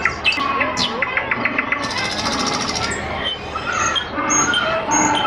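Robotic birds giving a mix of recorded bird chirps, whistles and trills, including a rapid clicking trill about a second in and a harsh, buzzy call lasting about a second. People's voices murmur underneath.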